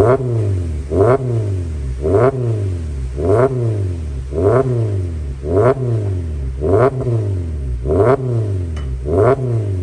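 Subaru XV GT's flat-four engine through an upgraded aftermarket exhaust, revved in quick, even throttle blips about once a second, the pitch rising and falling with each blip.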